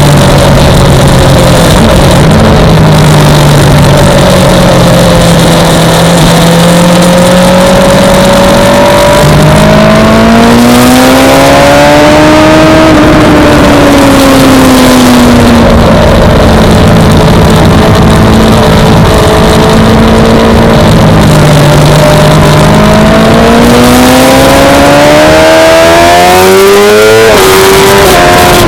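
Suzuki GSX-R600 inline-four engine heard from on board at track speed, over a steady rush of wind. The engine note climbs about ten seconds in, then sinks slowly as the rider comes off the throttle. It climbs again near the end and drops sharply at a gear change.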